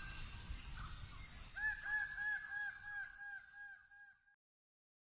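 A rainforest bird calling a rapid series of short, repeated, swooping notes, about four a second, over a steady high insect hum. The forest soundscape fades and cuts off a little after four seconds in.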